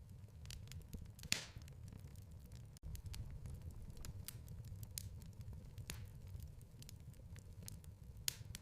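Wood fire crackling in a fireplace: irregular sharp snaps and pops over a low steady rumble of the flames, with a louder pop about a second in and another near the end.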